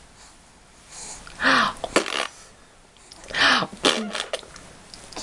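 A baby making two short, breathy, sneeze-like noises about two seconds apart, each followed by a sharp click.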